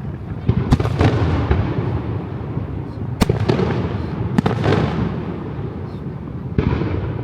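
Aerial fireworks shells bursting overhead: a string of sharp booms, about six of them, each followed by a fading rolling rumble, over a steady low rumble of further bursts.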